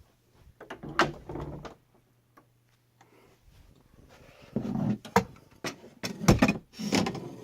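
Handling noise of things being moved about while a tripod is fetched: scattered knocks and clunks with rustling between them, busiest in the second half, over a faint steady hum.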